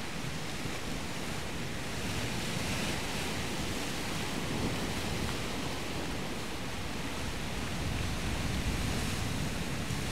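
Steady rush of sea surf, swelling gently, with some wind noise on the microphone.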